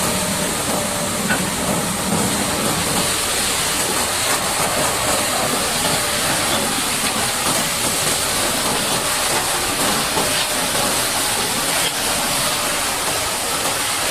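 High-pressure water jet spraying steadily against a mud-caked Caterpillar D8T bulldozer, a loud even hiss as it blasts the mud off.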